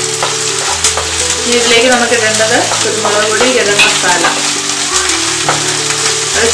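Thick masala paste sizzling in hot oil in a non-stick frying pan, stirred and scraped around with a wooden spatula, over soft instrumental background music.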